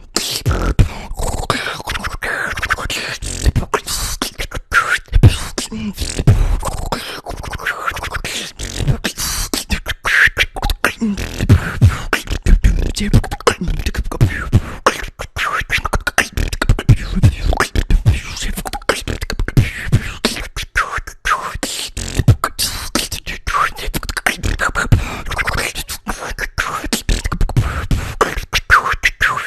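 Beatboxing: a fast, dense stream of mouth-made clicks and snares over deep kick-drum thumps, with short pitched vocal sweeps mixed in.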